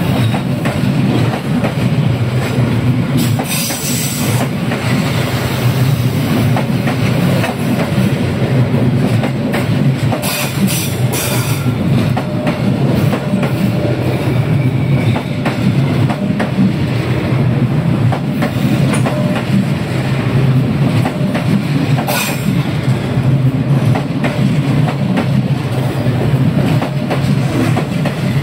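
A passenger train passing: a steady low rumble of the rolling cars with continual clicking of wheels over the rail joints, and a few brief high wheel squeals.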